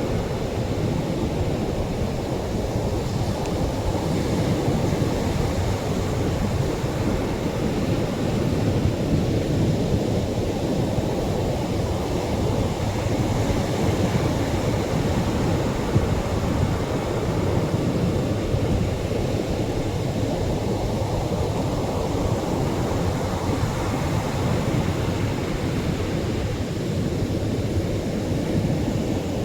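Atlantic surf washing onto the shore: a steady, low rush of waves that swells and eases only gently, with no distinct breaks.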